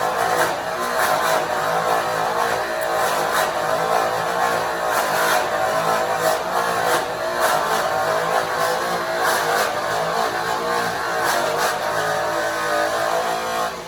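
Makita GA7021 angle grinder running an airway buff against an aluminum semi-truck wheel: a loud, steady motor whine with the hiss of the buff on the metal, cutting off right at the end.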